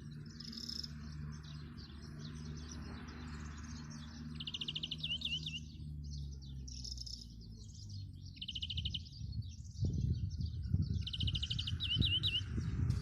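Songbirds singing in repeated phrases of fast, high trills that end in short downward slurs. About two-thirds of the way in, a louder, uneven low rumbling noise comes in under the song.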